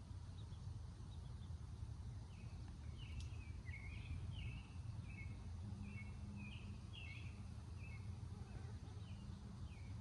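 A small bird calling a series of about a dozen short chirps over a steady low rumble of background noise.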